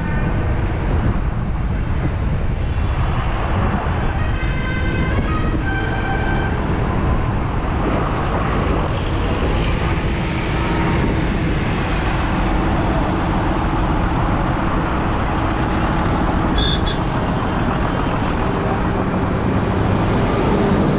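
Tractor engines running with a steady low rumble.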